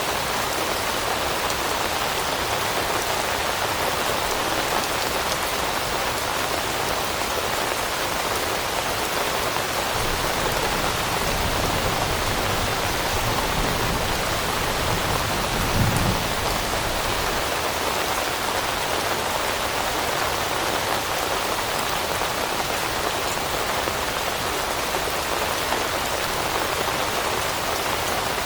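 Steady rain falling on leaves, an even hiss of drops. About halfway through, a low rumble swells, peaks briefly and fades.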